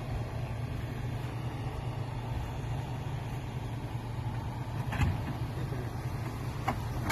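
Truck engine idling steadily, with two short knocks, about five seconds in and again near the end.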